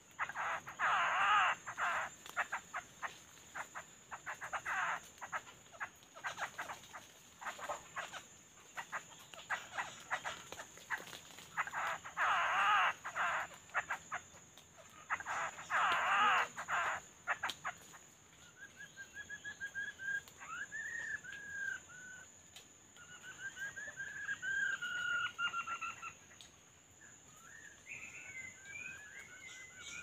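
Birds calling: several harsh, rapid chattering bursts of about a second each in the first half, then whistled warbling phrases through the second half.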